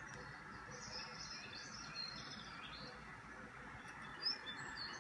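Small songbirds chirping and trilling in a bird video played through a computer's speakers, with one louder chirp about four seconds in.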